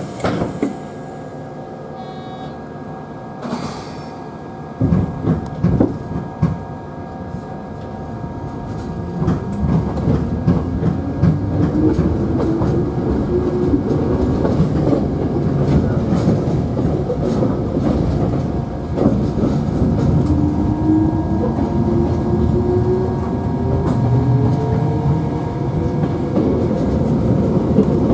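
Electric mountain railway train pulling away from a station: a few clunks about five seconds in as it starts to move, then the motor whine climbs steadily in pitch as it gathers speed. Steel wheels clack and rumble on the rails throughout.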